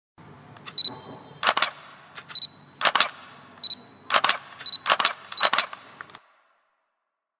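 Camera shutter clicks, about a dozen sharp clicks over six seconds, some paired with a short high whine, over a faint hiss.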